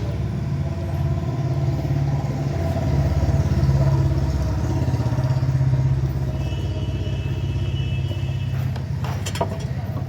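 A vehicle engine running steadily with a low drone that swells a little in the middle, and a couple of sharp clicks near the end.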